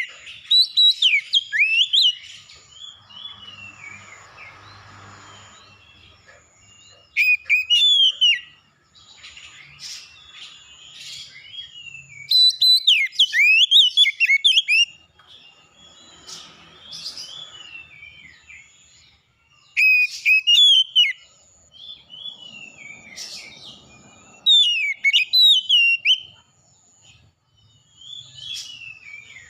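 Songbirds singing: bursts of quick whistled and chirping phrases every few seconds, with a faint, evenly pulsed high tone underneath.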